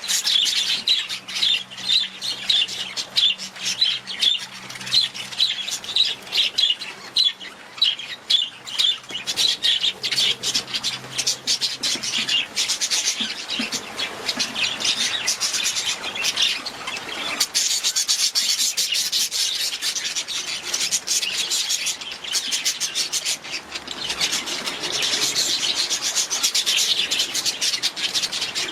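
Budgerigars chirping and chattering: a quick run of high, repeated chirps that turns into a denser, more continuous chatter about halfway through.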